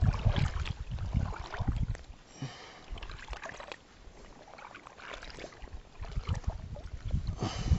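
Irregular knocks and bumps of gear and handling against a fishing kayak, with faint water sounds, quieter in the middle and picking up again near the end.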